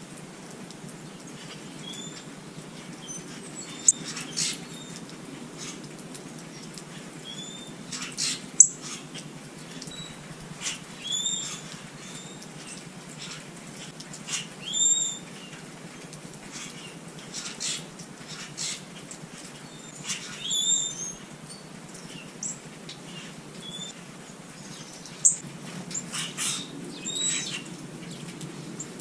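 Small wild birds at a feeder giving short, scattered chirps every second or two, with a few sharp flutters or clicks among them, over a steady low rumble.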